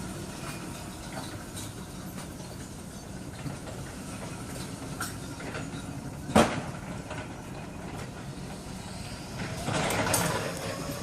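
Electric reach truck running with a steady mechanical hum, scattered light clicks and one sharp clank about six seconds in; the machine noise grows louder near the end.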